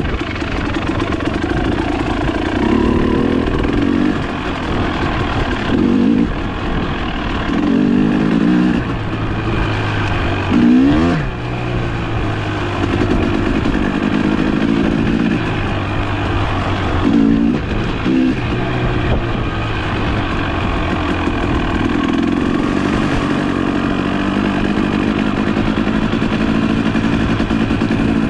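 Trail motorcycle engine running under a rider's throttle, the revs swelling and easing off every few seconds, with one quick rise and fall about eleven seconds in.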